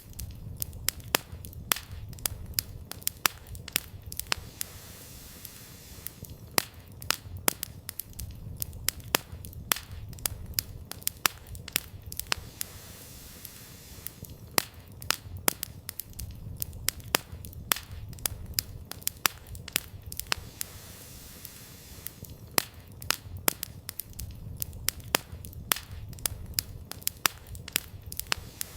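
Wood campfire burning, firewood crackling and popping in irregular clusters of sharp snaps over a low steady rumble of the flames.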